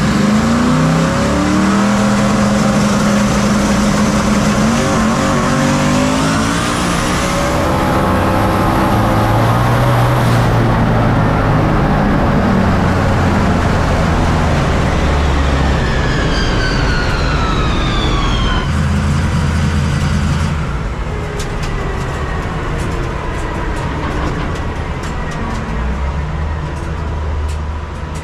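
Drag-racing vehicle engine at full throttle down the strip, its pitch climbing through the gears, with a couple of abrupt changes in the sound.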